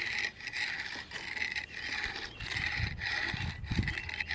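Repeated back-and-forth rubbing and scraping strokes, a little under two a second, of a tool being worked over resin-wetted fiberglass on a sailboat rudder to level the laminate.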